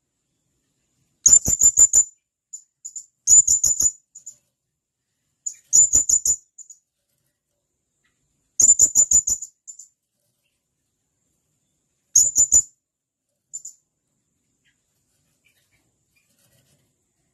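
Blue-crowned hanging parrot (serindit) giving sharp, high-pitched calls: five short bursts of rapid notes a few seconds apart, with a few single short notes in between.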